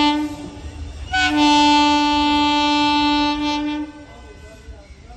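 Locomotive horn of an arriving train, sounding twice. A short blast ends just after the start, then a long, steady blast of nearly three seconds begins about a second in.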